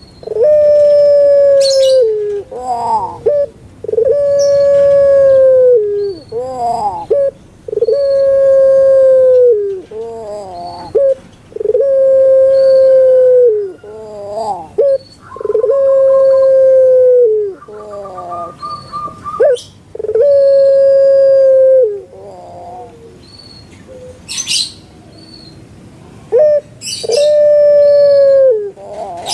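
Puter pelung dove (Streptopelia risoria) cooing over and over. Each call is a short rising warble followed by a long, drawn-out steady coo that drops at the end, about every four seconds.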